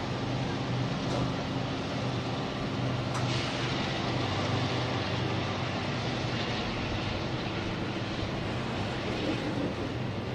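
Norfolk Southern train's diesel locomotives running, a steady low drone over rumbling rail noise.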